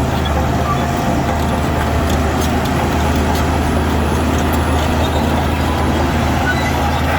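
Heavy diesel engine of an earthmoving machine running steadily with a low drone, and a few faint knocks.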